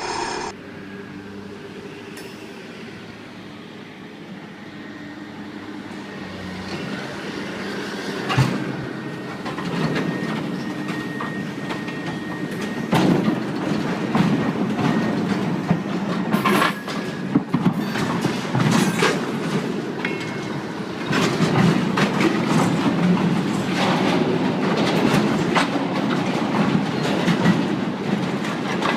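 Train running close by on its track, growing louder over the first dozen seconds and then staying loud, with a clatter of wheels clicking over the rail joints.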